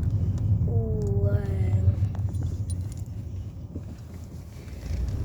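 A short, slightly falling hum of a young person's voice, about a second long, over a steady low rumble.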